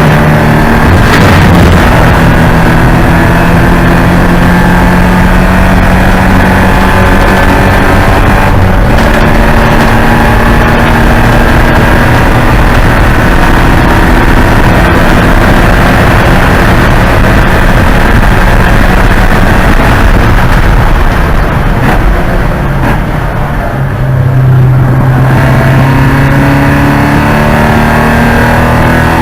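Porsche 944's four-cylinder engine running hard at racing speed, its pitch shifting with gear changes. About three quarters of the way through, the revs drop and it goes quieter, then it climbs again under throttle near the end.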